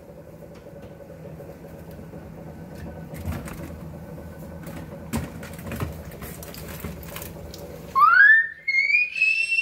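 A few light knocks and clicks over a steady low hum, then, about eight seconds in, a loud high-pitched scream that rises in pitch and holds: a startled shriek at the fake snake and roaches in the refrigerator.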